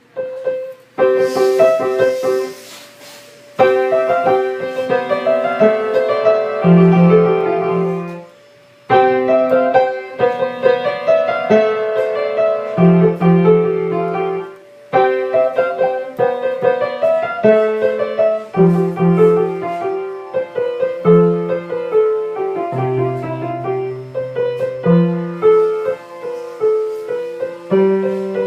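Piano music: a melody over low held notes, played in phrases with short breaks between them.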